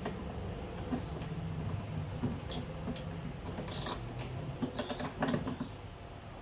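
Metal hand tools and car parts clicking and clinking in a series of sharp taps, bunched together a little after the middle.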